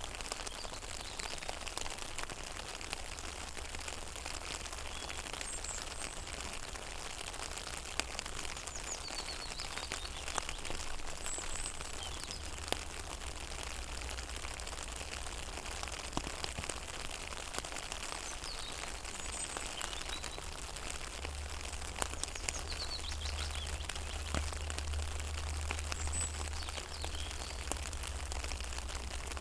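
Rain falling on a pond: a steady patter of many small drops hitting the water, with birds chirping briefly now and then.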